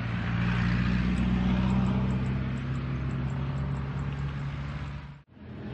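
Steady low engine drone with a hiss over it, swelling over the first couple of seconds and easing off, then cut off abruptly a little over five seconds in.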